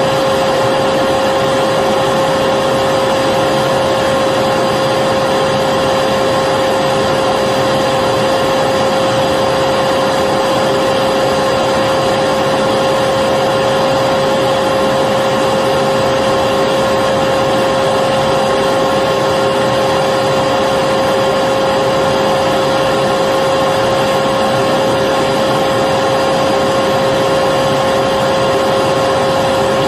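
Electric vacuum cleaner running continuously at constant speed: a steady whine with a strong hum-like tone over a broad rush of air.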